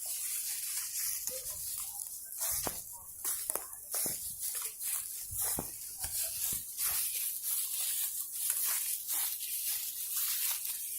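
Footsteps crunching and rustling through dry forest undergrowth, an irregular run of crackles from leaves and twigs underfoot.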